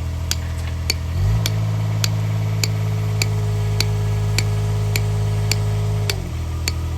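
A motor-vehicle engine idling; its revs rise about a second in, hold for about five seconds, then fall back to idle. A sharp regular ticking, a little under two ticks a second, goes on throughout.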